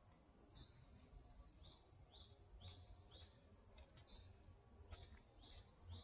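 Faint forest birdsong: small birds repeating short falling chirps, with one sharper high note a little past halfway. Under it runs a steady, high-pitched insect buzz.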